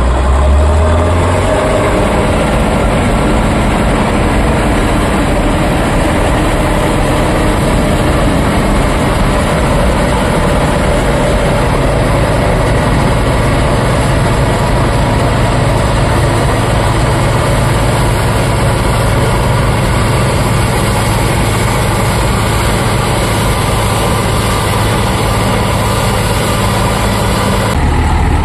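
Bizon Z056 combine harvester's SW400 six-cylinder diesel engine running steadily, its note changing a little about a third of the way through.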